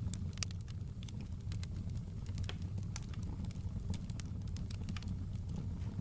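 Wood fire crackling in a fireplace: irregular sharp pops and snaps, several a second at times, over a steady low rumble of the flames.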